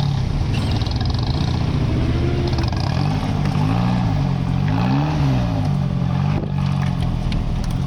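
Nissan 240SX engine running with a loud exhaust leaking through a hole blown at the resonator; the revs climb and drop twice in the middle, then settle back to a steady drone.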